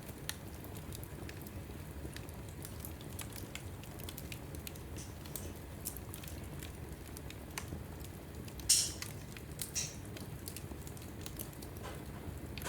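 Logs burning in a wood fireplace, crackling: scattered sharp pops over a steady low rumble of the flames, with a louder flurry of crackles about two-thirds of the way through.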